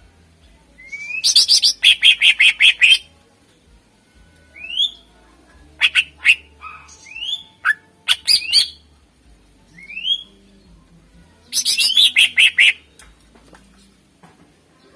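A cucak ijo (green leafbird) singing: two loud bursts of rapid repeated notes, one near the start and one about two-thirds of the way through, with short rising whistles in between.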